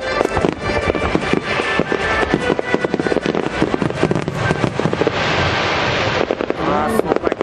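Fireworks bursting in a rapid, dense barrage of bangs and crackles, with music playing underneath.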